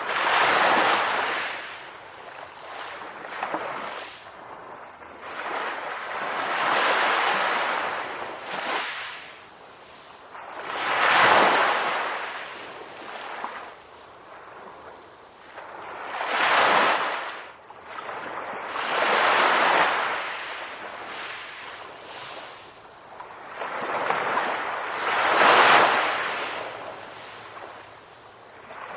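Ocean waves breaking on a shore: the surf swells up and washes away six times, each surge rising and then fading, with quieter stretches between.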